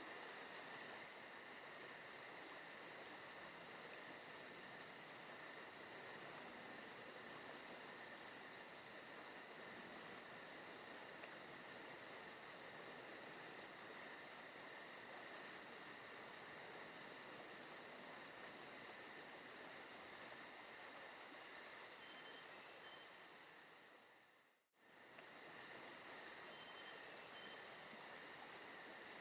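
Forest ambience of crickets and other insects chirping steadily, with a fast pulsing high trill over a soft hiss. About 25 seconds in, the sound dips away and swells back up.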